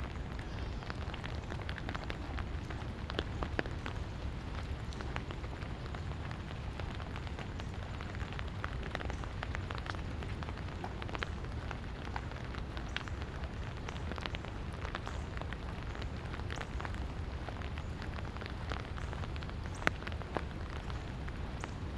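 Light rain falling: a steady hiss with many small drops ticking irregularly, over a steady low rumble.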